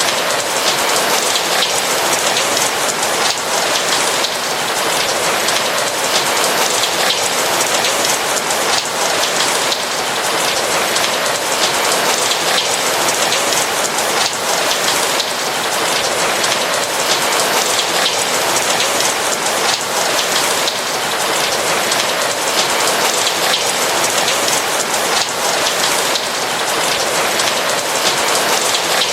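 Steady rain falling on a roof, a dense even hiss of many fine drops with no let-up.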